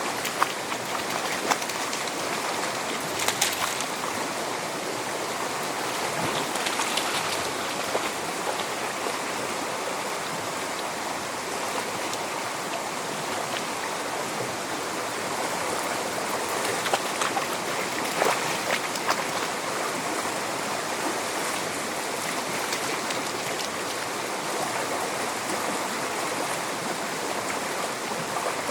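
Steady rush of running water from a stream, with a few brief sharp clicks or taps scattered through it.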